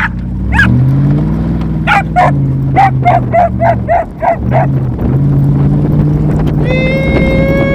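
Truck engine accelerating through the gears while a dog barks in a quick run of about nine barks, roughly three a second, as it races alongside. A long steady high-pitched tone starts near the end.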